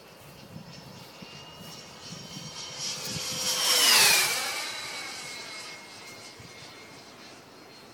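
Viper Jet model's 120 mm eleven-blade electric ducted fan whining in a fast low pass. The whine grows louder over about four seconds, then drops sharply in pitch as the jet goes by and fades away.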